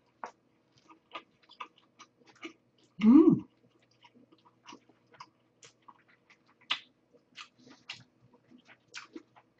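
Chewing of battered, deep-fried imitation crab sticks: a run of many small crisp clicks from the fried batter. A short vocal sound comes about three seconds in.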